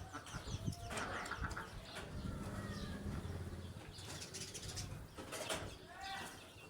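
Farm ducks giving short, pitch-bending peeping calls in scattered clusters, amid clicks and rustling from the birds moving about.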